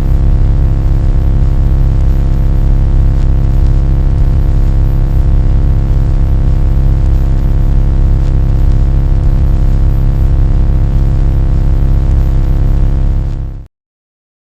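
A loud, steady, low rumbling drone with a hum of many steady tones over it, fading quickly and cutting off near the end.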